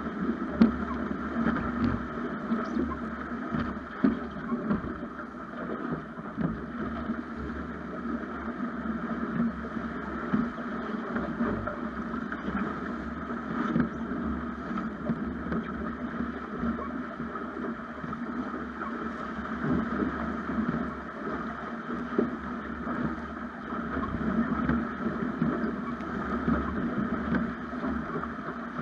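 Water rushing along the hull of a Snipe sailing dinghy under sail, with wind noise on an action camera's microphone. A couple of sharper knocks come about a second in and again about four seconds in.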